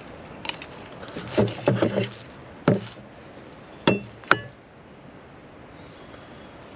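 A series of about seven knocks and light clinks, like hard objects being handled and set down, the last two ringing briefly, over a steady background hiss.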